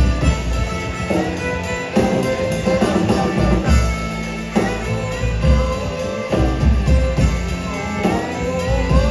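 Live rock band playing an instrumental passage: drum kit and guitars, no vocals.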